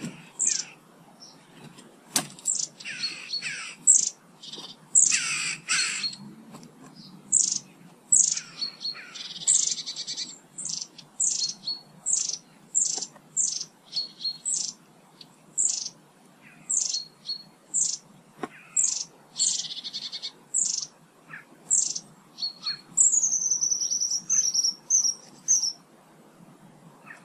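Garden birds calling: a steady string of short, high chirps, one or two a second, with a few longer, harsher rasping notes mixed in. Near the end comes a quick run of falling notes.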